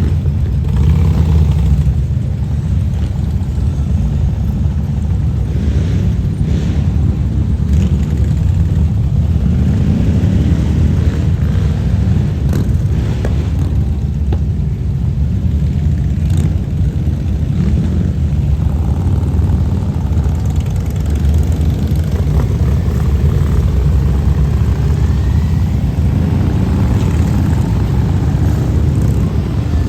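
Steady low rumble of motorcycle engines in an escort procession, with a few faint rising notes as single bikes rev.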